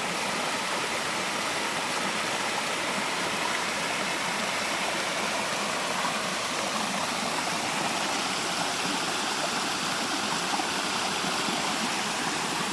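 Small forest waterfall: water falling and splashing with a steady, even rush.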